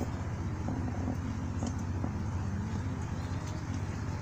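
Steady low engine hum of a car moving slowly, with a few faint clicks.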